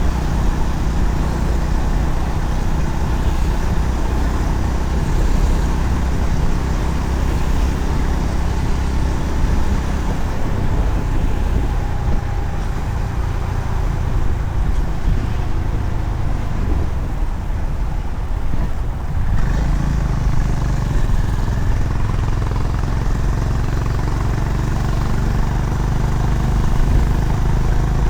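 Honda CB350RS's air-cooled single-cylinder engine running at road speed under steady wind and road noise. The engine note eases off about ten seconds in and picks up strongly again about two-thirds of the way through.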